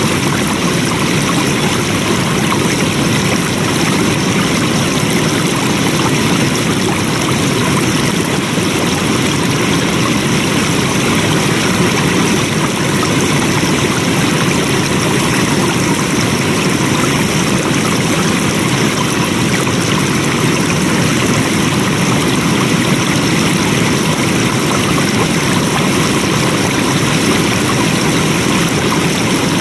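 Flowing water running steadily, an even rushing sound that does not change.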